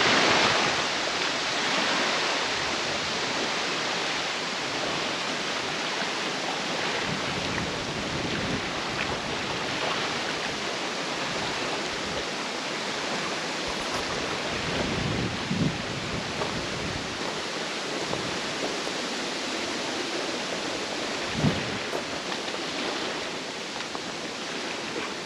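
Steady outdoor rushing noise, even throughout, with a couple of faint low thumps about fifteen and twenty-one seconds in.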